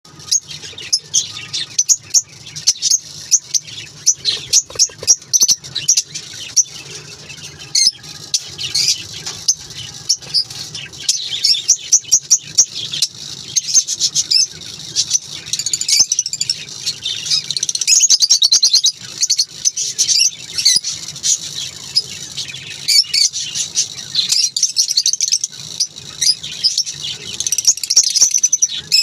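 Lovebirds chirping constantly, many short, high-pitched calls overlapping in quick succession.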